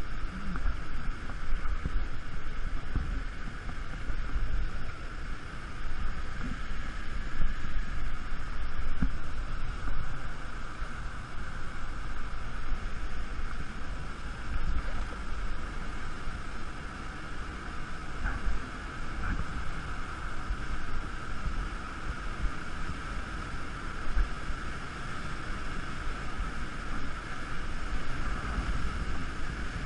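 Steady rush of a waterfall, with uneven low wind buffeting on the microphone.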